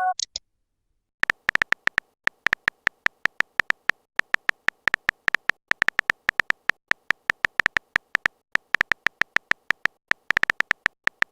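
Phone keyboard typing sound effect: a long, irregular run of short, identical electronic clicks, about five to six a second, starting after a brief pause.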